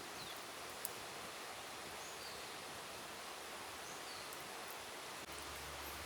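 Quiet forest ambience: a steady soft hiss with a few faint, short, high bird chirps and one light click about a second in.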